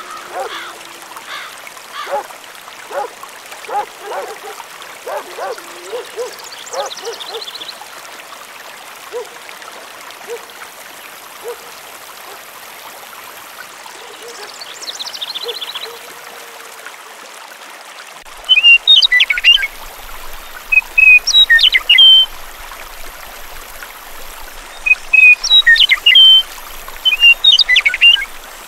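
Birds chirping and trilling over a steady trickle of flowing water. About two-thirds of the way in, loud, sharp chirps in quick clusters take over as the loudest sound.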